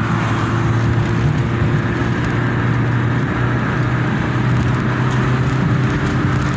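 Chevrolet Corsa Wind's 1.0-litre four-cylinder engine running steadily at about 80 km/h, breathing through a dual-flow sport air filter, heard from inside the cabin with road and wind noise.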